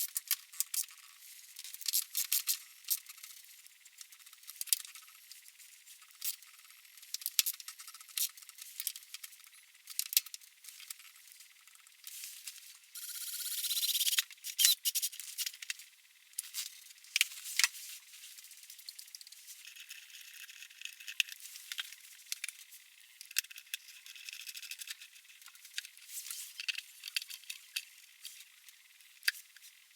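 Small hard objects clicking, clinking and rattling at irregular moments, with a short rising rush of noise about thirteen seconds in.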